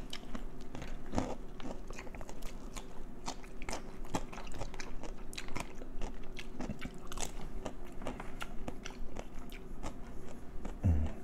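Close-miked chewing and biting of KFC fried chicken: irregular wet, crunchy clicks of the mouth working. A brief low voiced sound near the end.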